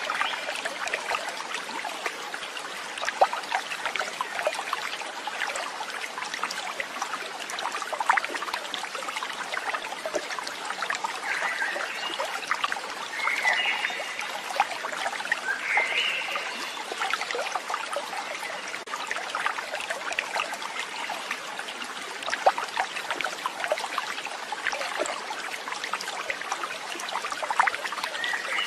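Water trickling and babbling steadily, like a small stream, with a few short chirps in the middle and near the end.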